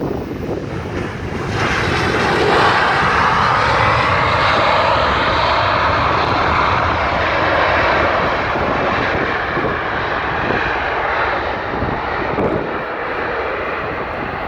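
Boeing 737-800's CFM56-7B jet engines, a loud jet noise that swells about a second and a half in and then slowly fades.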